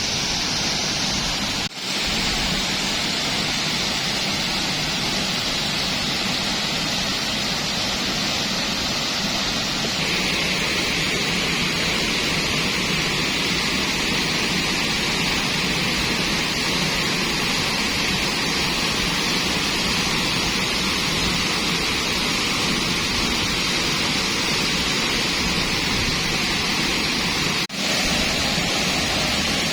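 Tibumana waterfall pouring into its plunge pool: a steady, loud rush of falling water. It drops out briefly twice, about two seconds in and near the end.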